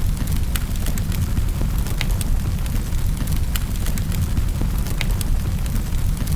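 Wood fire in a fireplace crackling: sharp pops and snaps several times a second over a steady low rumble of the flames.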